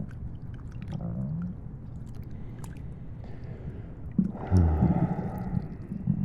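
Close-up stomach gurgling and rumbling over a steady rain ambience: a short gurgle about a second in, then a longer, louder low rumble about four seconds in.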